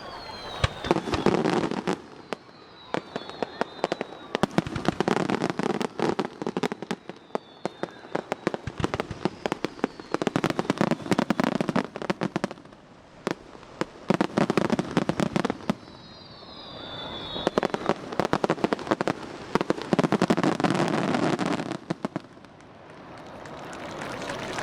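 Fireworks display: aerial shells bursting into dense crackling in waves every few seconds, with a few thin whistles falling in pitch.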